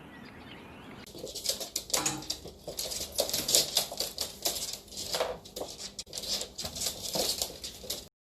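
A parrot flapping its wings in rapid, irregular flurries starting about a second in.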